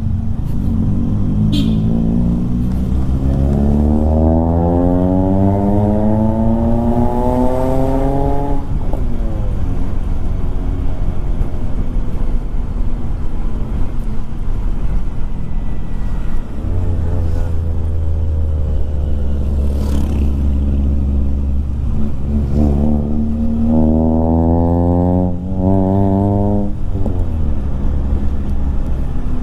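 Vehicle engine accelerating: its pitch climbs steadily for several seconds and then drops sharply as it shifts or backs off, which happens twice, over a steady low running drone.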